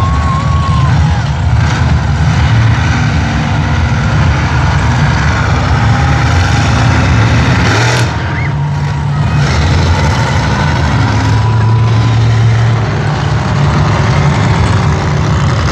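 Monster truck engine running loud and steady with a deep low rumble. A single sharp click about eight seconds in.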